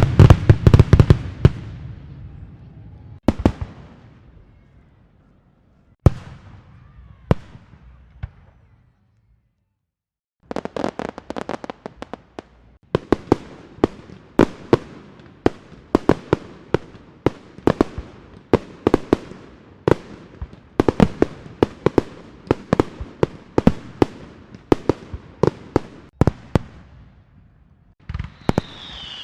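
Fireworks going off: a loud burst fading away, then a few separate bangs and a short lull. After that comes a long, rapid run of sharp cracks and bangs like firecrackers, and near the end falling whistles as rockets go up.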